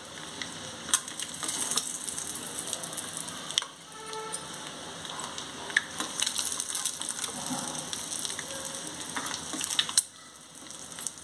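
Halved boiled eggs frying in hot oil in a pan: a steady sizzle with crackles. A metal slotted spoon clicks and scrapes against the pan now and then as the eggs are turned and lifted out.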